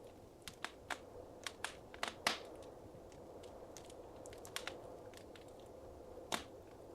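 Wood fire crackling in a fireplace: irregular sharp pops and snaps over a steady low hiss of burning, with the loudest pop about two seconds in and another near the end.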